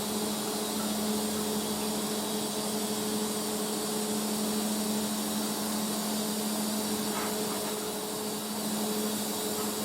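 TIG welding arc on stainless steel tube at 55 amps: a steady hiss with a constant low hum.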